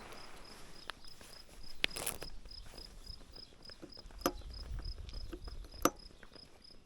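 A cricket chirping steadily, about three short pulses a second, with a few sharp clicks scattered through.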